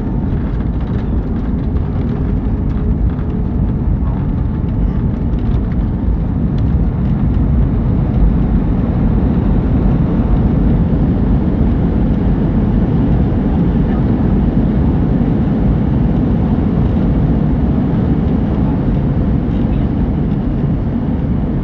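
Steady rumble of an Airbus A321's engines and rushing air, heard from inside the passenger cabin during landing.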